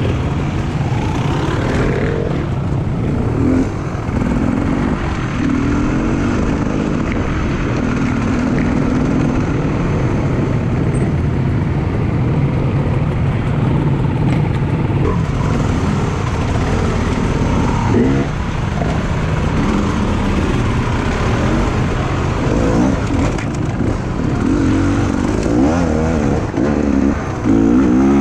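Off-road enduro motorcycle engine running under way, its note rising and falling with the throttle over a steady rush of noise.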